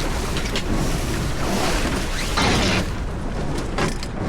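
Wind buffeting the microphone with a low rumble aboard a sailboat under way, with water rushing and brief louder rushes, the longest about halfway through.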